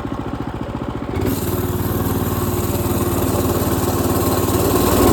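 Predator 212cc single-cylinder four-stroke engine on a mini bike, governor bypassed, chugging at low revs and then opened up to full throttle about a second in, held at high revs and growing louder under load up a hill.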